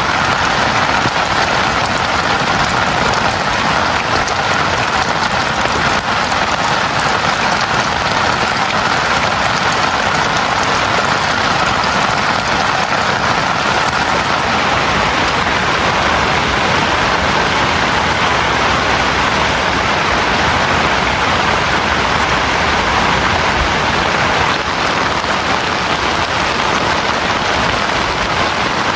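Heavy rain falling steadily on a tent, an even, unbroken hiss with no let-up.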